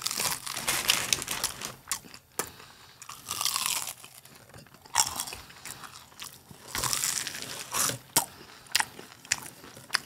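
Close-miked crunching and chewing of crispy fried churros: a string of uneven crunchy bites and chews.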